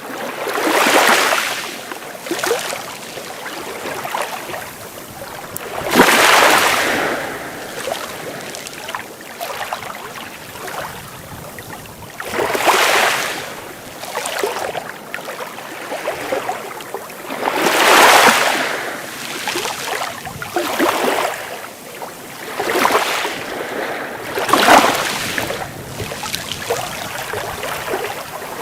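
Sea waves breaking and washing up on the shore, a swell of surf every few seconds between a steady wash of water, the biggest breaks about six seconds in and near eighteen seconds.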